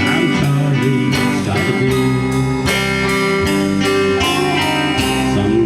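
Band music led by guitar with a steady beat: an instrumental passage between sung lines.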